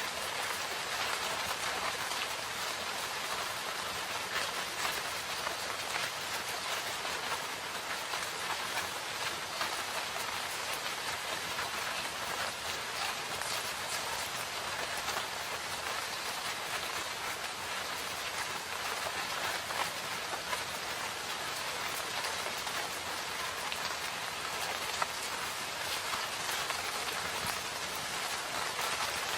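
Steady rain falling in a forest, a continuous even hiss of drops on foliage and ground with fine patters of individual drops throughout.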